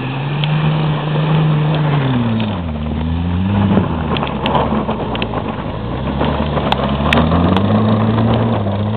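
Audi S4's engine revving up and down as the car slides in circles on snow, its note climbing, dropping back about two and a half seconds in, and climbing again toward the end, with tyre and snow noise beneath and a few sharp clicks near the middle.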